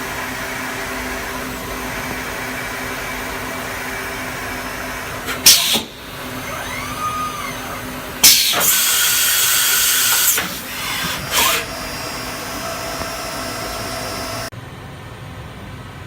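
Brother TC-R2A CNC drill and tapping center running through its cycle: a steady machine hum, a sharp burst about five seconds in, then a rising-then-falling whine, about two seconds of loud hiss, and another short burst. The level drops suddenly near the end.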